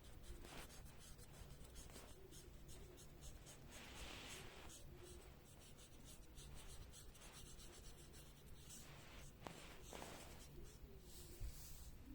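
Faint, repeated strokes of a colouring tool scratching on paper.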